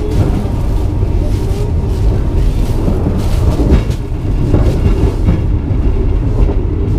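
Steady, loud rumble of a moving sleeper train heard inside the carriage. Scattered short knocks and rustles come from a berth's bedding and its plastic-wrapped blanket being laid out.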